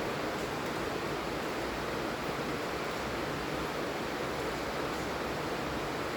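Steady rainfall, an even unbroken hiss with no distinct drops or pauses.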